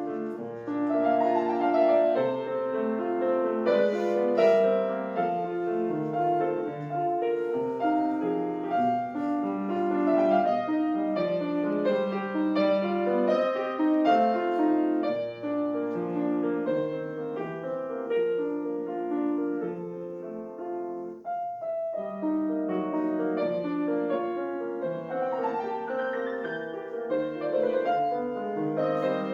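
Background piano music, a gentle melody with chords.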